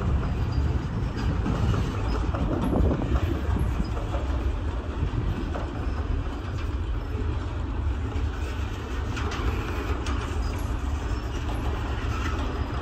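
Freight train rolling past, the cars rumbling steadily with faint clicks of wheels over rail joints.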